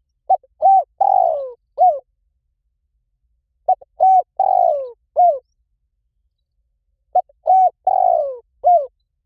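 Spotted dove cooing: three identical phrases about three and a half seconds apart, each a short note, a rising-and-falling coo, a long coo that falls in pitch, and a short closing coo.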